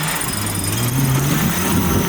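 A vehicle engine running and revving, its pitch rising and falling.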